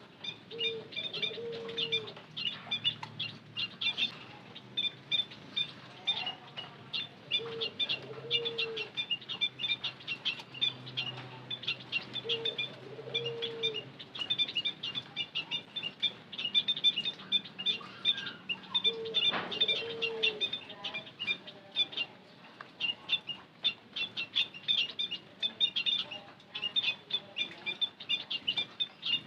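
White-headed munias (bondol haji) calling continuously in a dense run of short, thin high chirps, as from a flock. A lower, dove-like call sounds about four times in the background.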